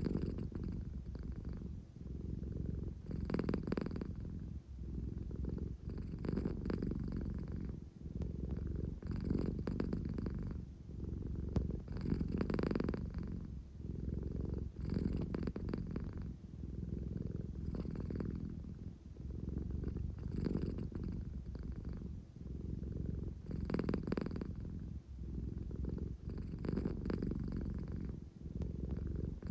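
American Shorthair cat purring continuously, the low rumble swelling and easing with each breath about every three seconds. It is the purr of a drowsy cat wanting affection.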